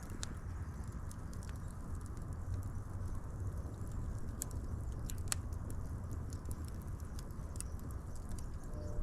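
Wood fire crackling: scattered sharp pops and snaps over a steady low rumble, with one louder pop about five seconds in.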